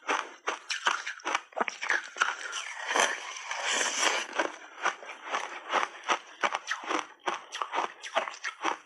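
Crunchy refrozen block ice being bitten and chewed close to the microphone: a rapid run of sharp crunches, with a longer, noisier stretch of grinding about three to four seconds in.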